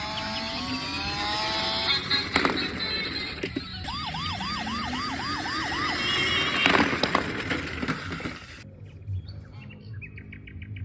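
Electronic siren sound effect, a fast string of rising whoops about four a second, among other synthetic beeps and falling tones over music. It cuts to quieter chirping sounds near the end.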